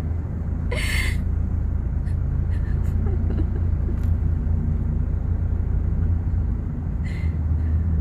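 Car engine idling with a steady low rumble, heard from inside the car. Two short hissing noises cut through, about a second in and near the end.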